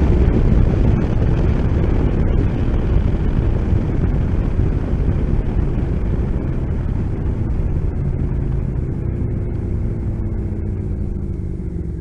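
Motorcycle engines running in a steady low rumble. About two-thirds of the way through, an engine tone rises and falls, and the sound eases off slightly near the end.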